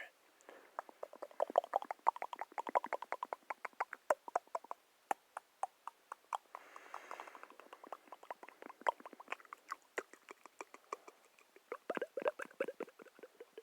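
Close-miked ASMR trigger sounds: rapid, irregular small clicks, several to many a second, with a soft breathy hiss about halfway through and a denser run of clicks near the end.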